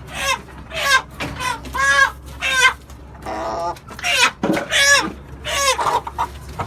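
Chickens calling repeatedly: a run of about eight loud, short squawking calls, roughly one every half second to second, with one longer, lower call about halfway through.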